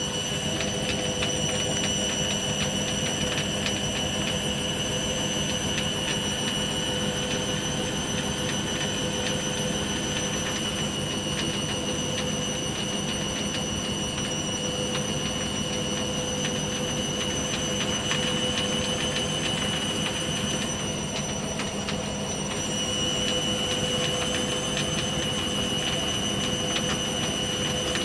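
Hoover Baby washing machine on its intermittent spin after a 60° wash: the motor and drum run with a steady high whine, easing off briefly about three quarters of the way through.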